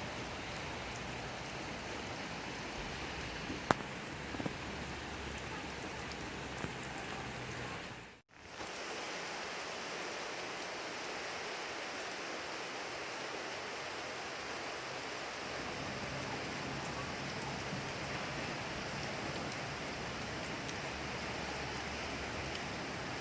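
Steady rain falling, an even hiss of many drops, with a single sharp click about four seconds in and a few fainter ticks. The sound cuts out for a moment about eight seconds in, then the rain resumes.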